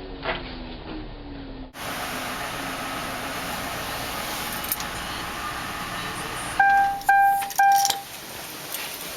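A steady hum, then three short, identical electronic beeps about half a second apart, typical of a car's warning chime.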